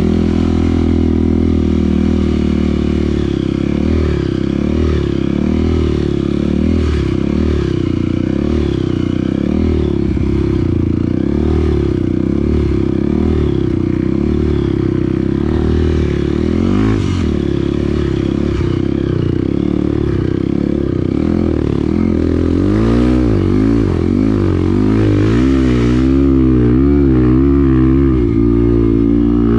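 Dirt bike engine running while riding, its pitch wavering with the throttle and then swinging up and down repeatedly over the last several seconds.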